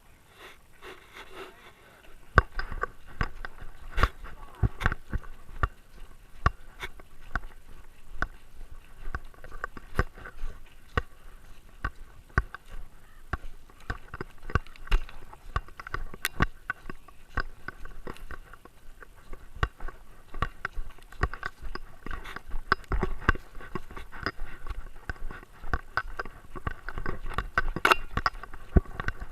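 Close, irregular knocking and scraping on a GoPro worn by a Great Dane as the dog moves about, starting about two seconds in, with low thumps mixed in.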